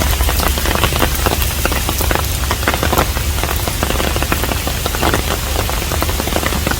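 Steady rain falling on a traditional Korean hanok: a dense hiss, with many separate drops tapping close by, over a steady low rumble.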